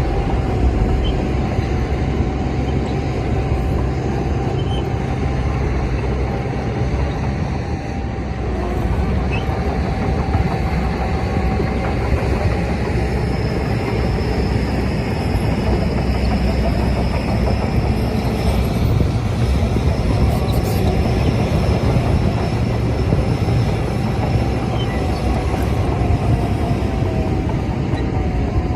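Crawler bulldozer working: its diesel engine runs steadily under load while the steel tracks clatter and squeal. A thin high whine runs through the middle stretch, and the level dips briefly about eight seconds in.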